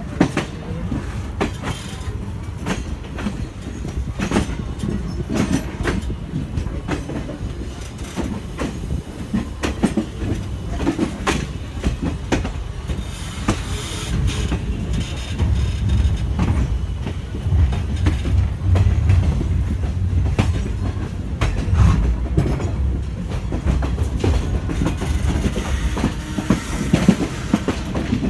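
Passenger train running, heard from on board a coach: a steady rumble of wheels on track with repeated clicks over rail joints. The low rumble grows stronger about halfway through.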